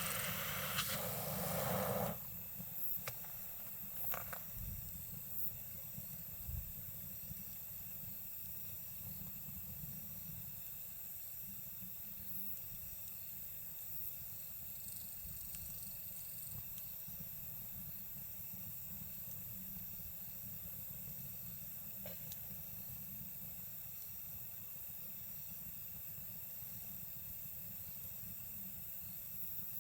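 Campfire crackling with a few sparse pops over a steady background of night insects' thin high tones. A louder rushing noise stops abruptly about two seconds in.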